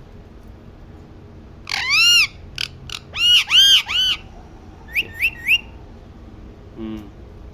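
Pet green parrot calling: a run of loud, arched, whistle-like calls, then three short rising chirps about five seconds in.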